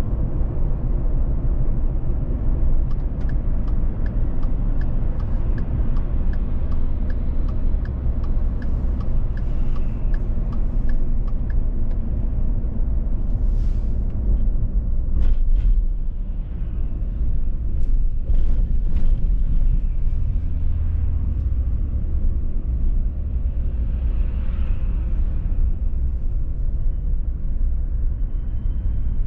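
Car driving at road speed, heard from inside: a steady low rumble of tyres and engine. From about three seconds in until about eleven seconds, a turn-signal indicator ticks evenly about twice a second, and a few scattered clicks follow later.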